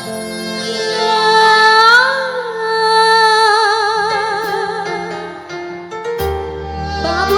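Live band playing a song's instrumental intro: a sustained melodic lead with wide vibrato and bending pitch, with bass and drums coming in about six seconds in.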